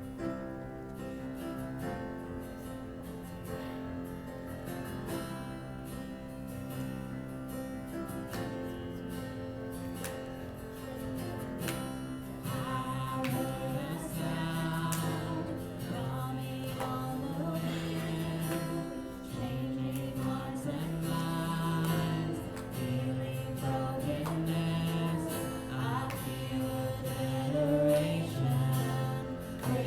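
Gospel music: acoustic guitar playing with voices singing, growing fuller and louder about halfway through.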